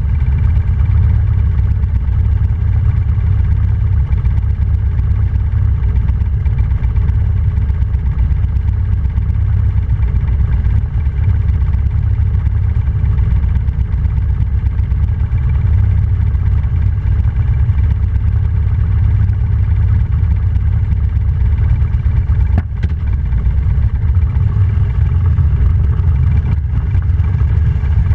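Motorcycle engine running at a steady, even pitch while riding, with a deep rumble. There is a brief dip about three-quarters of the way through.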